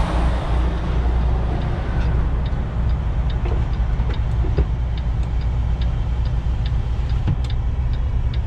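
Semi-truck diesel engine running under way, heard from inside the cab as a steady low drone. From about two seconds in, a light, even ticking comes about two or three times a second.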